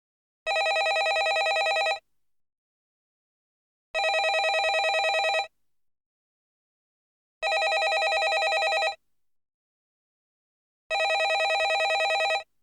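Landline telephone ringing: four evenly spaced rings of about a second and a half each, with silent pauses between, each ring a rapidly warbling tone.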